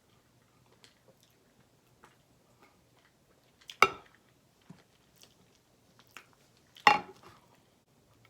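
Faint chewing with small mouth clicks, and twice a loud clink of a utensil against a dish, about four and seven seconds in, each ringing briefly.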